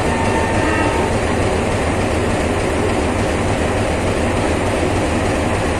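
Indian Railways passenger train rolling out of the station, a steady, loud rumble of coach wheels on the track, with a faint brief squeal about a second in.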